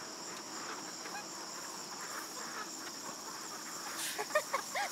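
A few short calls from farm poultry about four seconds in, over a steady high-pitched insect drone.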